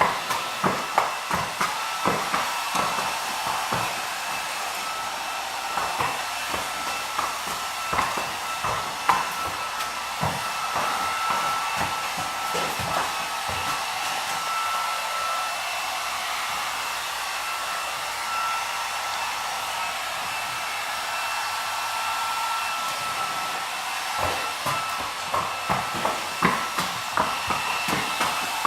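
Electric hair dryer running steadily: an even airy hiss with a high motor whine. Irregular short knocks and thuds sound over it, more of them near the start and the end.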